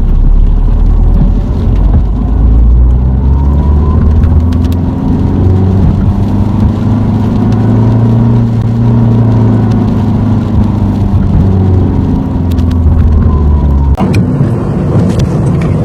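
Car engine and road noise heard from inside the cabin. The engine note rises over several seconds, then levels and eases off. The sound changes abruptly near the end.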